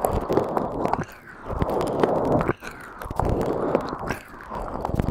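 Close-miked rustling noise in repeated bursts about a second long, with small sharp clicks scattered through it.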